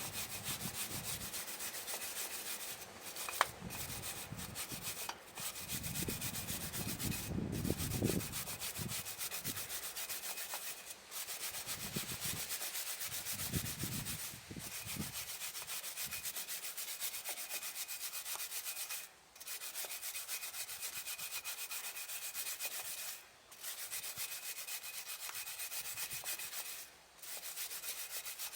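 Abrasive tool scrubbing steadily over a faint steady whine, briefly stopping about eight times.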